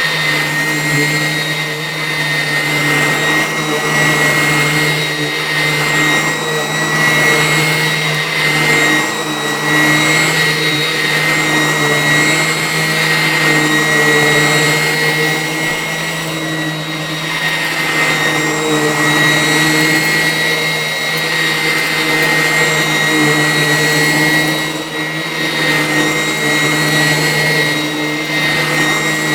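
Vacuum cleaner running without a break: a steady whine at one pitch over a rushing suction noise, the level swelling and dipping slightly.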